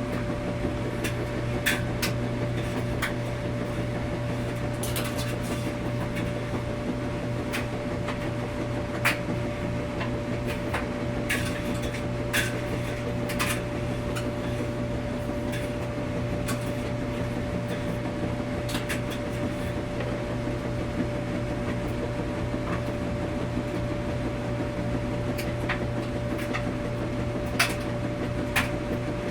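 Washing machine running: a steady hum with a constant tone, broken by irregular light clicks and knocks about a dozen times.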